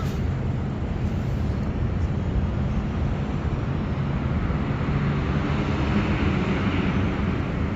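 Wind rumbling on the microphone, with the whir of a small electric RC plane's motors passing. The whir grows louder from about halfway through and drops back near the end.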